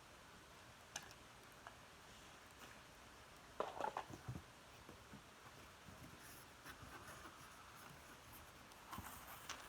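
Near silence: a low hiss with a few faint scattered clicks, and a brief rustle about three and a half seconds in.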